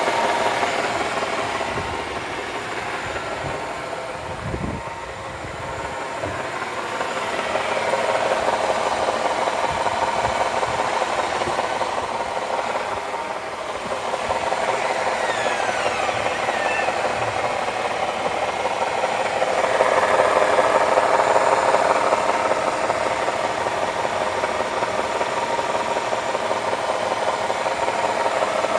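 Nissan Tiida's CVT whining steadily over the idling HR15 engine while the car runs in gear with its driven wheels spinning free. The drone is a sign of internal CVT damage rather than a worn hub bearing, which the mechanic concludes because stopping each wheel leaves it unchanged and the transmission casing vibrates. The whine grows louder a few times, with a few dull knocks early on.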